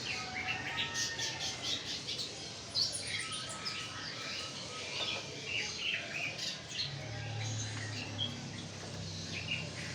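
Many small caged songbirds chirping and calling over one another in quick, scattered notes and short trills. A low steady hum joins in about seven seconds in.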